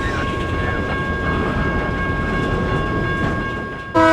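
A train rolling past, a steady rumble of wheels on rail with a thin steady squeal over it. Near the end a locomotive horn cuts in suddenly and loudly, a chord of several notes.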